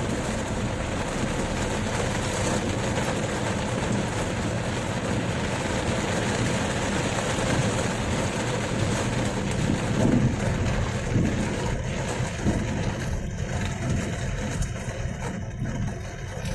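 A summer storm's wind and rain make a steady, loud noise, heaviest in the low end, easing slightly in the upper range near the end.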